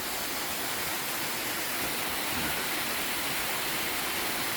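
Waterfall rushing steadily, with cascading water falling into a pool.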